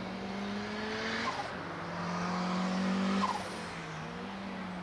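Nissan 200SX race car's engine pulling hard as it approaches. The engine note climbs and then drops off sharply twice, about a second in and again about three seconds in.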